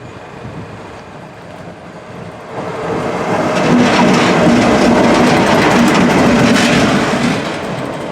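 A train passing close by: its noise builds about two and a half seconds in and is loudest for several seconds, with wheels clattering over the rail joints, then eases off near the end.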